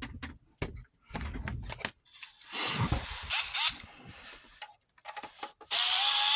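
Small clicks and knocks of parts being handled, then about five and a half seconds in a power drill starts running with a steady whine that rises slightly in pitch, driving out screws.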